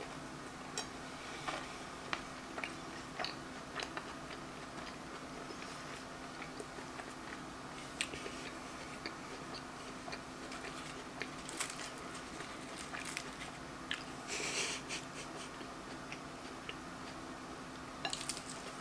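Close-miked eating of flaky apple pie pizza: chewing with scattered mouth clicks and small crunches, and a louder crackling stretch about fourteen seconds in.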